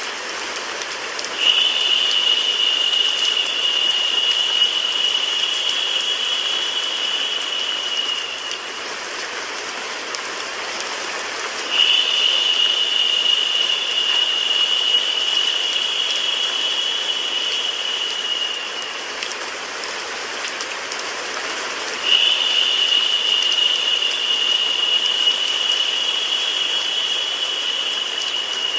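Steady rain sound mixed with white noise, an even hiss. A narrower, louder high hiss comes in suddenly three times, about every ten seconds, holds for about seven seconds and fades each time: the looped recording repeating.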